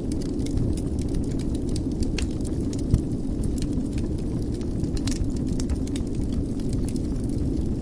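Wood fire burning in a fireplace: a steady low rumble of flames with scattered crackles and small pops, one louder pop about three seconds in.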